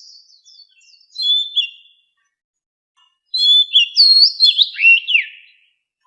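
Oriental magpie-robin singing: clear whistled phrases with sliding notes, a short phrase about a second in and a longer, louder run of notes from about halfway through.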